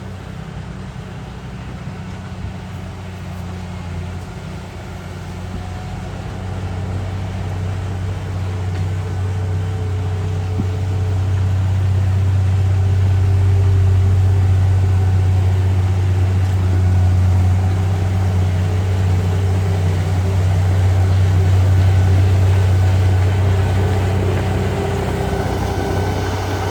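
Heavy diesel engine of earthmoving equipment running with a steady low hum, growing louder over the first dozen seconds and then holding steady.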